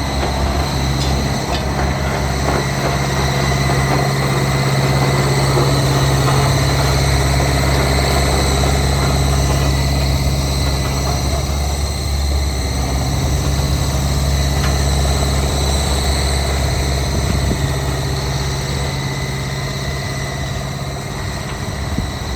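Heavy diesel construction machine engine running steadily with a deep, even drone.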